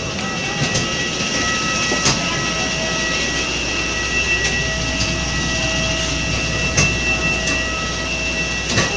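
Airbus A321 cabin noise while the aircraft rolls on the ground after landing: a steady rumble with a constant multi-pitched whine and a few light knocks.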